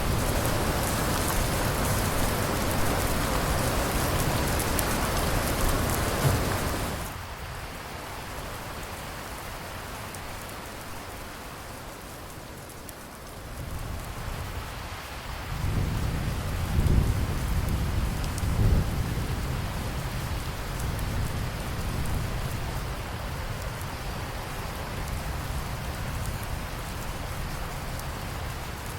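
Steady rain with rolling thunder. A louder spell for the first seven seconds or so cuts off suddenly. About halfway through, a deep rumble of thunder swells up with two louder peaks, then the rain runs on evenly.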